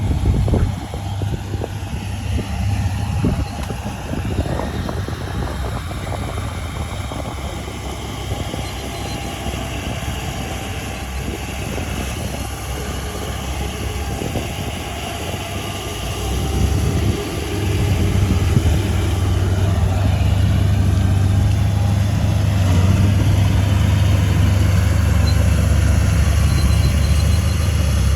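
Heavy earthmoving machine's diesel engine running with a steady low rumble, growing louder and heavier about seventeen seconds in.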